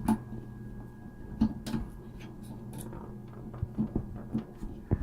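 Irregular small clicks and taps of hands working a tool in among the parts of a desktop 3D printer, trying to reach a shipping zip tie, over a faint steady hum.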